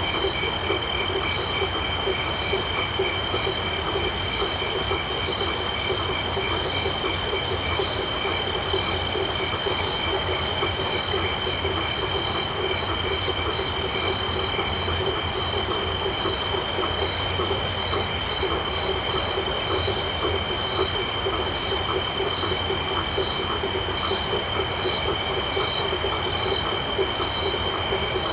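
Dense tropical night chorus: insects, such as crickets, trilling steadily at several high pitches, over a continuous low chorus of frogs calling in rapid pulses.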